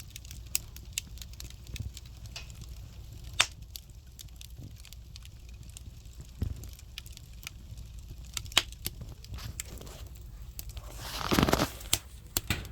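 Firewood burning in a buttumak, a traditional Korean earthen wood stove: irregular sharp crackles and pops over a steady low rumble, with a louder noisy burst about eleven seconds in.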